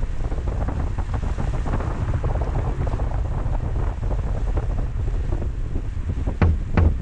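Rain striking a moving Honda N-VAN with steady low road rumble, as heard from inside the cabin. Near the end a music track with a regular drum-machine beat comes in.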